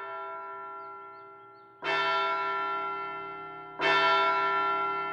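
A large bell tolling slowly, three strokes about two seconds apart, each ringing on and fading before the next; the first stroke is softer than the other two.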